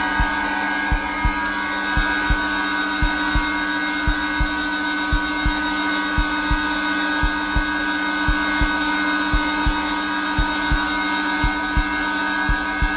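Zelmer vacuum cleaner running steadily at its lowest power setting, a constant motor hum with a few fixed whining tones. Over it a heartbeat thumps low and regularly, in lub-dub pairs.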